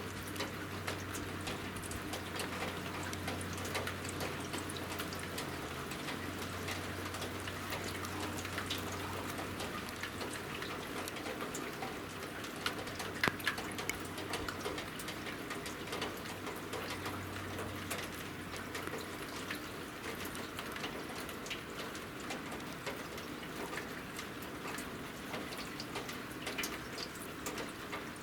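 Rain falling, with a steady patter and many scattered drip ticks. A low hum runs underneath and fades out about two-thirds of the way through.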